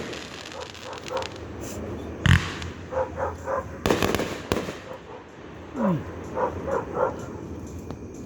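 Fireworks going off, with a sharp bang a little over two seconds in and a cluster of bangs around four seconds. In between, a dog barks in two quick runs of several barks.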